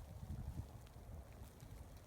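Faint, irregular wind buffeting on the microphone.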